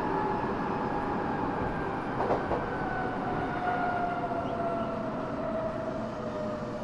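Running sound heard from the floor of a Tokyo Metro 6000 series car, whose Mitsubishi three-level VVVF inverter was taken from the 7000 series. Its high inverter whine, several tones over the rolling noise, slowly falls in pitch as the train slows. There is a brief clatter of wheels over a rail joint about two seconds in.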